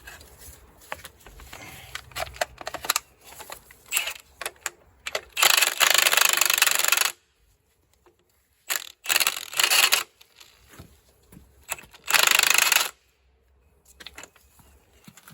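Metal parts clinking and knocking as they are handled, then a pneumatic air hammer buzzing in three bursts, about two seconds, one second and one second long. Each burst starts and stops abruptly, the middle one in short stutters, and the bursts are the loudest sound.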